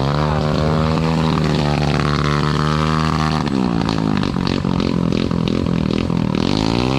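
Motorcycle engine revving hard: held high for about three seconds, then blipped up and down over and over while the rider keeps it from stalling in the mud.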